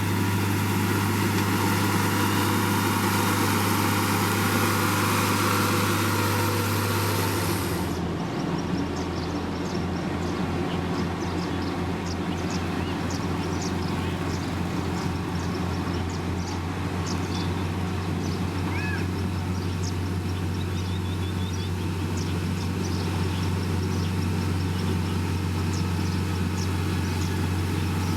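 Heavy construction machinery's diesel engine running steadily with a low, even hum. About eight seconds in the sound changes abruptly as the high hiss drops away, and faint scattered high ticks follow.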